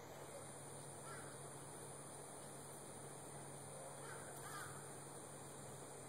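Faint, distant bird calls, once about a second in and again around four and a half seconds, over a quiet outdoor background with a low steady hum.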